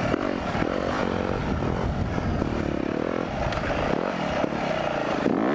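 Four-stroke motocross bike engine revving up and down repeatedly as it is ridden on a trail, heard from the bike's on-board camera with rushing noise underneath.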